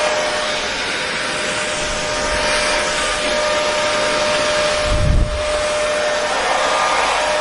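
Hair dryer running steadily: a constant rush of blown air with a steady motor whine. About five seconds in there is one brief low thump.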